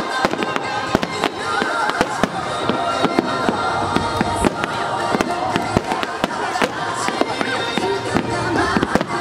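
Fireworks display: aerial shells bursting in rapid succession, a dense run of bangs and crackles with no break. Music plays underneath.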